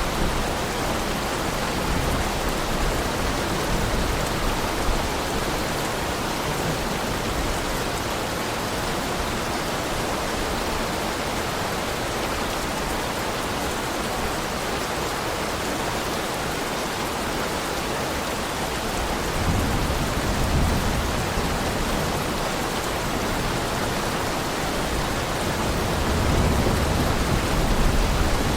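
Heavy rain falling in a steady, even hiss, with low rumbles of thunder swelling briefly about two-thirds of the way through and again near the end.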